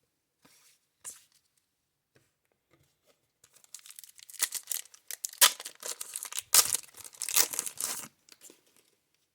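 A baseball card pack wrapper from a 1990 Score box being torn open and crinkled, a run of loud ripping and crackling from about three and a half seconds in to about eight seconds, after a few soft rustles of handling.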